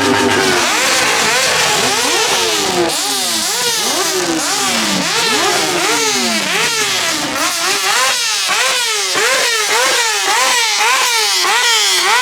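Car engine revved hard over and over, the pitch shooting up and dropping back again and again. The revs come quicker, about two a second, in the second half.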